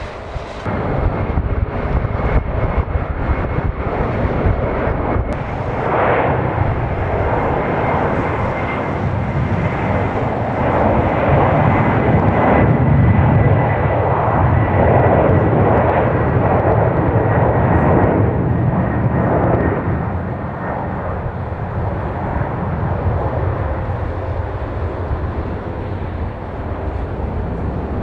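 Jet airliner's engines during a takeoff close by: loud, continuous engine noise with a thin steady high whine, building to its loudest about halfway through and easing off in the last third.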